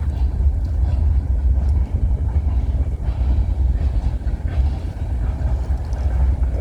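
CN freight train rolling past with a steady low rumble.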